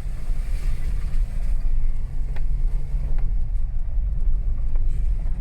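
Car driving, with a steady low engine and road rumble and a few faint clicks.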